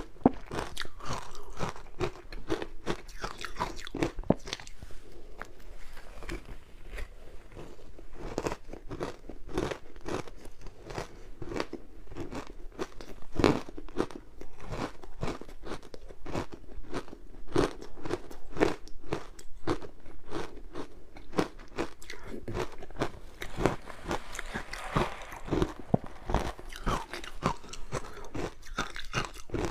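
Close-miked crunching of frozen matcha ice: repeated bites and chewing, with dense, irregular sharp crunches throughout.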